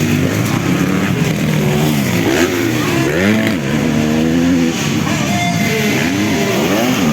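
250cc motocross bike engines racing, their pitch rising and falling over and over as the throttle is opened and shut.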